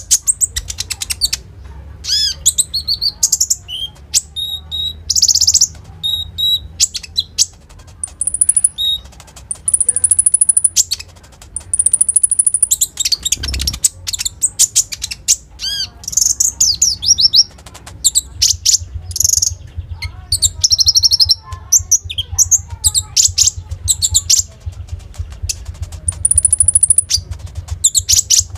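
A konin songbird singing nonstop in high, sharp chirps, quick trills and rapid ticking runs, mixed with short held whistles. A low hum runs underneath, and there is a single soft thump about halfway through.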